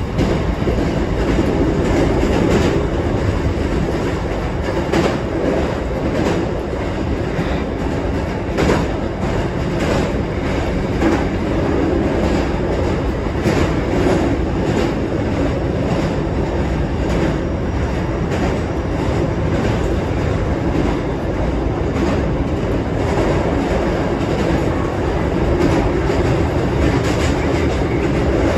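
Hankyu electric train running steadily, heard from inside the front car: a continuous rumble of wheels on rail with repeated clicks as the wheels cross rail joints, while crossing a steel truss bridge.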